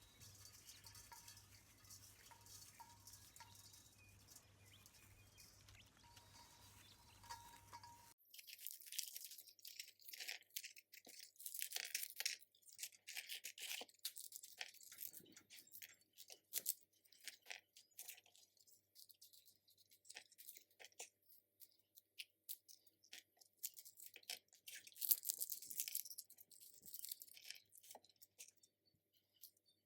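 Faint steady background hum for about eight seconds, then an abrupt change to irregular dry crackling and rustling that goes on to the end.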